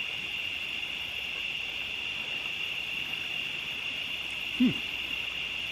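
Crickets chirping in a steady, continuous high-pitched chorus. One brief falling sound comes about two-thirds of the way through.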